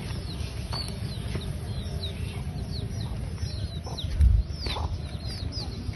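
Birds chirping: many short chirps, each falling in pitch, over a steady low rumble, with one dull thump a little after four seconds in.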